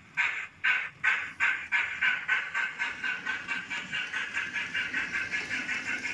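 Sound-fitted model steam locomotive chuffing from its onboard speaker as it pulls away. The beats start at about two a second and speed up steadily to about five a second.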